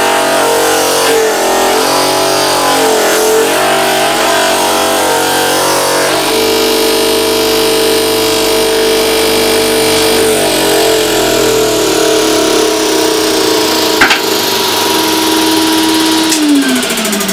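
Homemade face sander driven by a boxed-in tile cutter motor running steadily, its pitch wavering and dipping as a piece of wood is pressed against the sanding disc. There is a sharp click about fourteen seconds in, and near the end the motor is switched off and winds down, its pitch falling.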